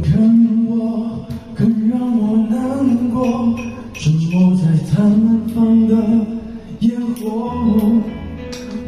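A man singing a slow Mandarin pop ballad in long held phrases over backing music.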